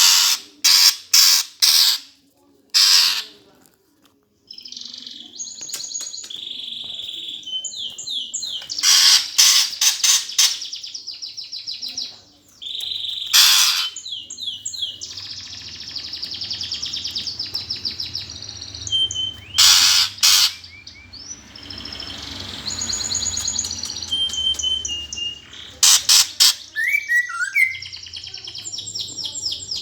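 Eurasian tree sparrows squabbling: clusters of loud, harsh chirps with fast, high chattering trills between them.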